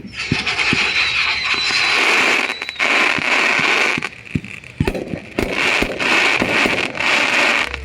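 Fireworks hissing and crackling in several long spurts that break off and start again, with scattered sharp pops and a brief thin whistle about a second in.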